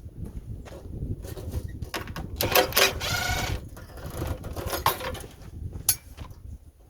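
Knocks, clanks and scrapes of metal feeder parts being handled and taken apart, with a brief whirring squeal about two and a half seconds in.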